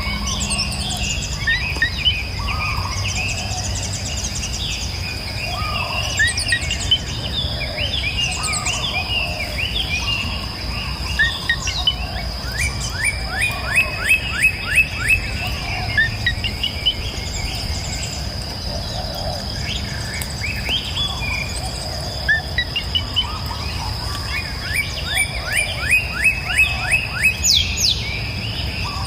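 Mixed birdsong: several birds chirping and calling, with fast runs of repeated notes about twelve seconds in and again near the end, over a steady low rush of flowing river water and a constant high-pitched whine.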